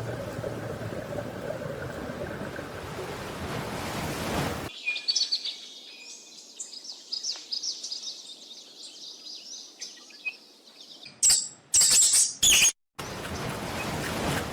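Birds chirping and twittering in many short high calls, coming in after a hard cut from a steady rumbling noise. A few loud, harsh bursts follow near the end, then steady noise again.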